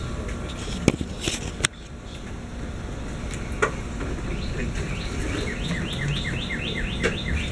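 Steady rain, with a few sharp clicks in the first two seconds. From about five seconds in, a rapid series of falling chirps repeats about four times a second.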